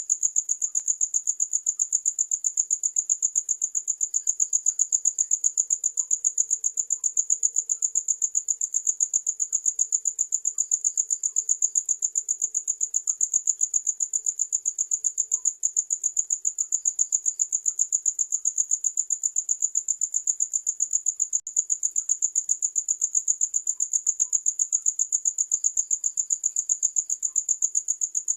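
A cricket chirping steadily: a high-pitched, rapid and evenly repeating chirp that carries on without a break.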